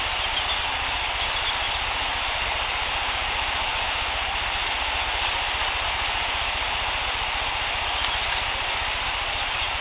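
Steady hiss of a heavily amplified outdoor field recording from an unattended audio recorder, cut off above a fairly low pitch, with a low rumble underneath. No distinct squeaks or calls stand out over the hiss.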